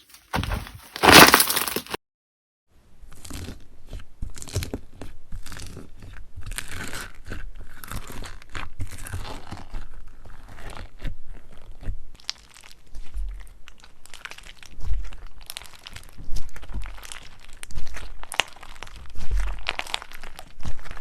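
Crunchy slime being squeezed and pressed, a dense run of small crackles and pops swelling and easing every second or two. There is a brief silent gap about two seconds in.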